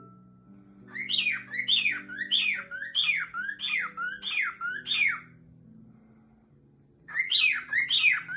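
Cockatiel singing: a quick run of whistled notes, each sweeping up and down, about three a second, breaking off for a couple of seconds and starting again near the end. Soft music with held low notes plays underneath.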